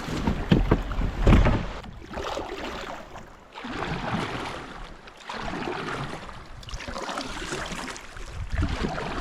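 Kayak on a river: a few knocks and bumps in the first second or so, then paddle strokes splashing and swishing through the water about every two seconds, with wind on the microphone.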